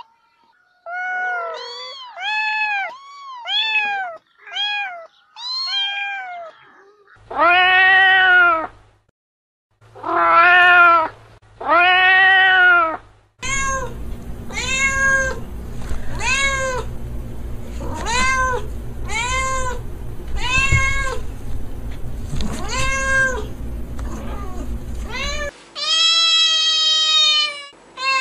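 Cats meowing in a string of separate calls: quick high-pitched kitten mews first, then three long drawn-out meows, then a cat meowing about once a second over a steady low hum, and longer mews near the end.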